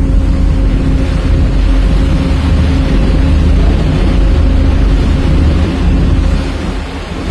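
Marine diesel engines of the tugboats and ship during berthing, running with a steady, loud low rumble and an even hum.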